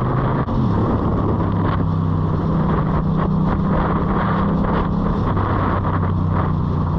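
Yamaha FZ-07 (MT-07) 689 cc parallel-twin engine running steadily through an Akrapovic exhaust, with a brief dip in its note about half a second in.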